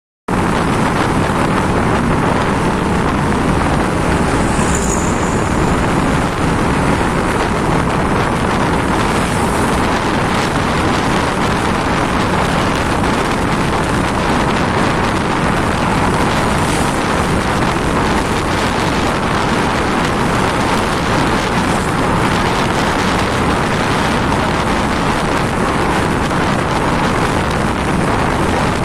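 Steady wind noise on the microphone of a moving motorcycle, together with its road and engine noise, holding an even level throughout.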